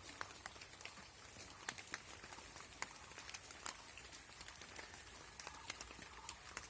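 Light rain falling, with scattered raindrops tapping irregularly and a faint steady hiss.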